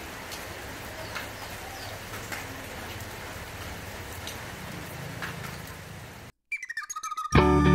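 A steady hiss with scattered faint ticks and a few short chirps. It cuts off suddenly about six seconds in, and guitar music starts.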